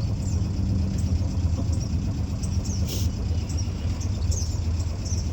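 A sailboat's engine running steadily at low speed, a constant low hum. There is one brief sharp click about three seconds in.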